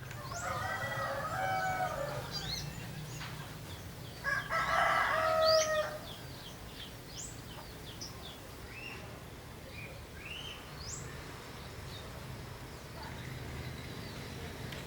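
A rooster crows twice, the second crow louder and dropping in pitch at its end, followed by a run of short, high chirps from small birds.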